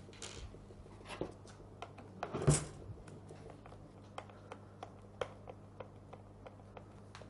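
Scattered small clicks and light taps of a Torx screwdriver and loosened screws on the plastic handle cover of a Bosch GSH 5 demolition hammer, with one louder knock about two and a half seconds in.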